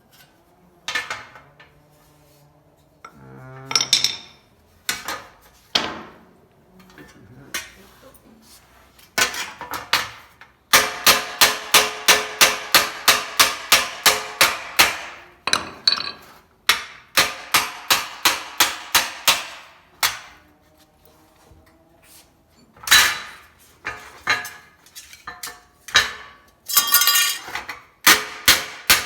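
Hammer blows on a sheet-steel patch panel, shrinking and shaping its edge: a few single ringing strikes, then quick runs of about four blows a second.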